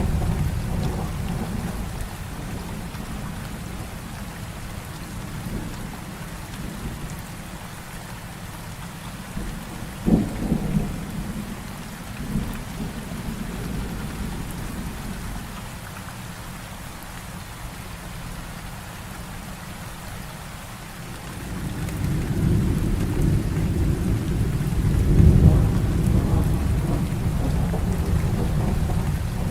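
Heavy rain falling steadily, with thunder. A low rumble dies away at the start, a short sharp crack comes about a third of the way in, and a long low rumble builds near the end, loudest a few seconds before it closes.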